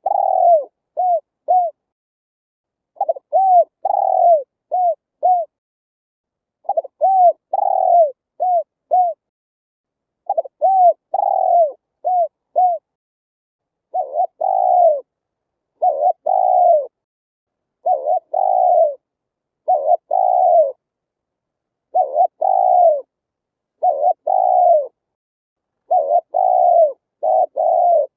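Spotted dove cooing in repeated phrases of several short coos, each coo rising and then falling in pitch, with dead silence between phrases. The phrases come about every three to four seconds at first, then about every two seconds.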